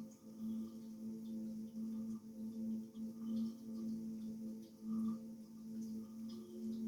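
A steady low hum held at one pitch, swelling and fading in loudness.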